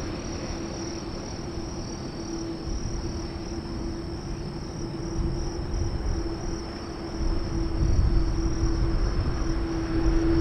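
Airbus A380's jet engines running with a steady whine over a low rumble, growing louder in the last few seconds as the airliner takes off. A thin, steady high insect buzz sits behind it.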